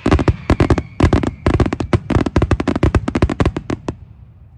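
Fireworks display: a rapid barrage of aerial shell bursts, a dense run of sharp bangs that thins out and stops about four seconds in.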